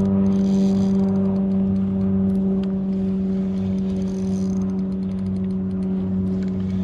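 A steady, even-pitched motor hum that stays level throughout, with faint clicks over it.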